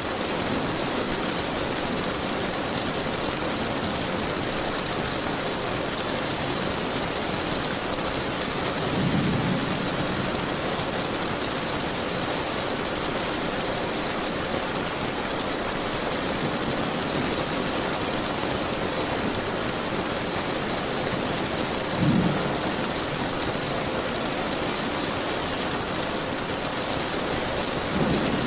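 Steady heavy rain, a dense even hiss, with two short low rumbles of thunder, one about a third of the way in and a sharper one about three quarters in.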